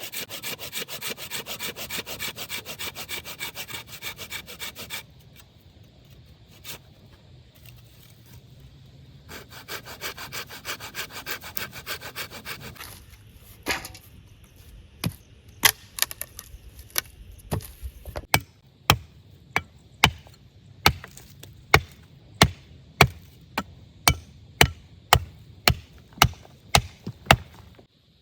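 Hand saw cutting through wood in quick back-and-forth strokes, in two bouts with a pause between. Then a long run of sharp, evenly spaced knocks on wood, a little under two a second.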